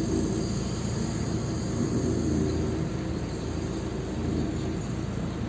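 A vehicle engine running steadily at an even speed, a low hum with a steady hiss above it.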